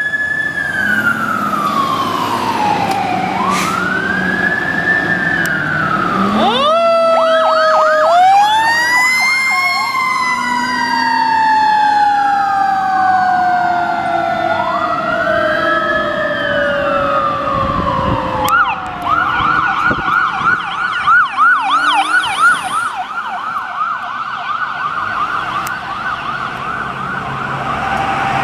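Fire engine sirens wailing, several overlapping, with pitch sweeping up and down. One tone falls slowly over about ten seconds. About 19 seconds in, a siren switches to a fast yelp, about three cycles a second.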